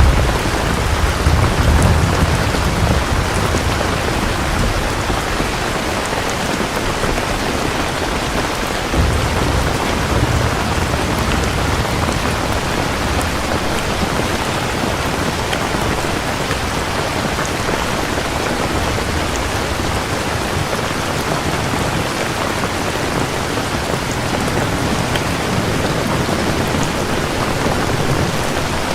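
Steady heavy rain, with low rumbles of thunder rolling in the first few seconds and again about nine seconds in.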